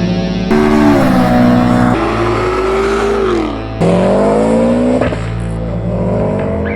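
Car engines revving, pitch rising and falling, in short clips cut together so the sound jumps abruptly about half a second in, at two seconds and again near four seconds.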